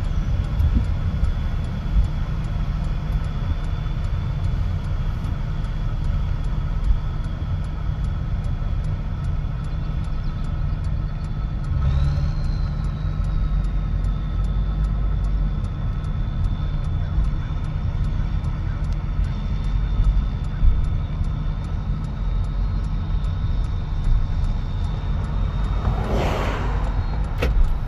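1965 Allis-Chalmers 190XT six-cylinder turbo diesel tractor engine running under load, with a steady low rumble and a thin high turbo whine. About twelve seconds in, the whine rises briefly and settles as the Power Director shifts from low to high range, 7th to 8th gear. A brief rushing noise comes near the end.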